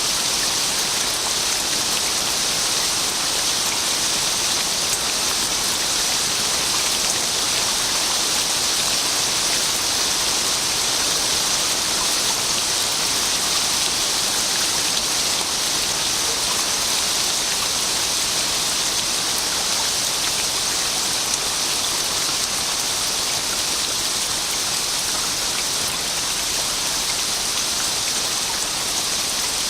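Steady rain falling, an even hiss of many drops without pause.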